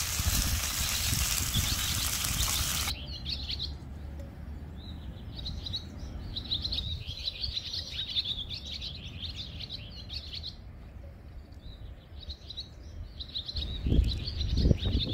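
A steady rushing hiss that cuts off abruptly about three seconds in. Then small birds chirp, in quick runs of short, high calls, with a few low thumps near the end.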